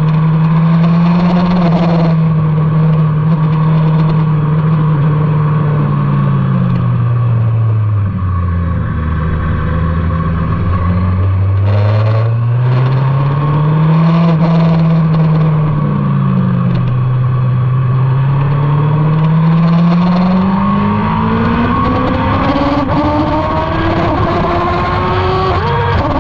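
Motorcycle engine running hard on a race track, loud throughout. The revs fall to a low about eight seconds in, climb again, dip briefly around sixteen seconds, then rise steadily through the last ten seconds as the bike accelerates.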